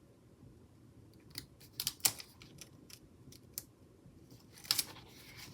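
Faint scattered clicks and light crinkles of paper stickers being peeled off a sticker sheet and pressed onto a planner page, with a short rustle near the end.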